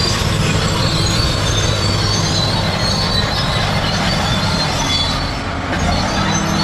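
Crawler bulldozer working: its diesel engine runs steadily, with the high squealing and clatter of its steel tracks over it. The sound eases briefly about five and a half seconds in.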